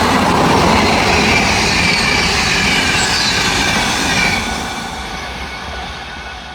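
Train passing close by at speed, with loud wheel-on-rail noise and high squealing tones sliding down in pitch; the noise falls away after about four seconds as it moves off.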